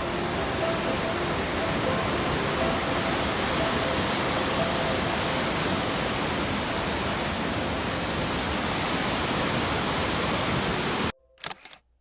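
Steady rushing roar of a waterfall, with faint music-like tones over it; it cuts off suddenly near the end, leaving a couple of brief clicks.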